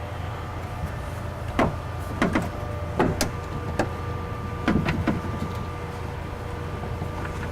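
Irregular metallic clicks and knocks, about half a dozen, as the window regulator and its nut and bolt are fitted into the door shell. A steady low hum runs underneath.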